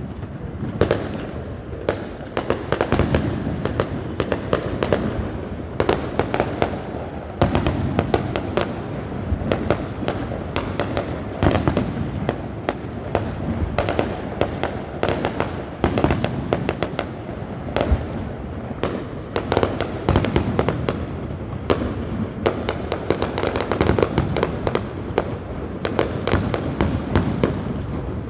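Fireworks going off in a continuous barrage: many sharp bangs and crackles in quick succession, with no pause.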